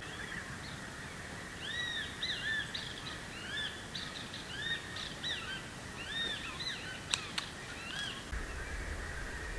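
Birds calling: a run of short, arched, repeated call notes over a steady high-pitched drone, with two sharp clicks about seven seconds in.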